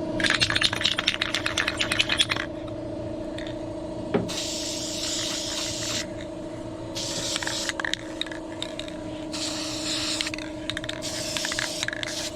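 An aerosol spray-paint can being shaken, its mixing ball rattling rapidly for about two seconds, then four short bursts of spray hissing from the nozzle as another coat of paint goes onto engine parts. A steady low hum runs underneath.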